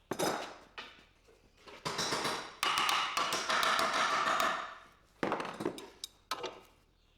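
Metal tools clanking against a steel suspension control arm while a ball joint press is fitted and worked: a sharp clank at the start, a longer ringing, rattling stretch in the middle, then a couple more knocks.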